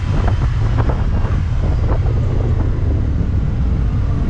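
Wind buffeting a motorcycle rider's camera microphone over the steady low rumble of the bike and traffic on the move.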